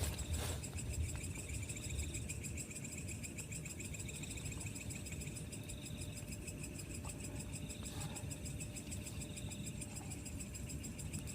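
Night insects chirping in a steady, rapid pulsing trill, with a second, higher buzzing call that starts and stops several times over a low rumble.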